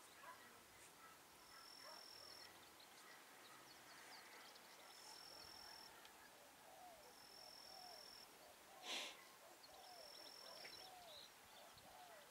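Faint birdsong over quiet pond-side ambience: a high, thin whistled note held for under a second and repeated every two or three seconds, with lower short chirps coming in quick succession through the second half. A brief rustle of noise about nine seconds in.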